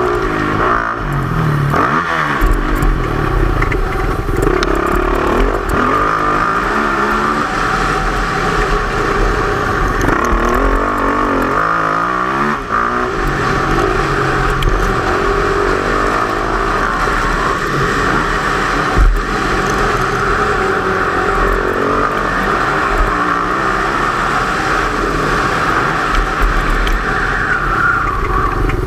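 Yamaha YZ450F single-cylinder four-stroke motocross engine revving up and down continuously as the bike is ridden around the track. There is a sharp knock about two-thirds of the way through.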